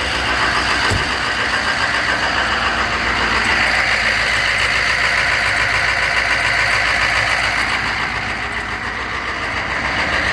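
1995 Chevy K3500's 6.5-litre turbo diesel V8 idling steadily, with one short knock about a second in.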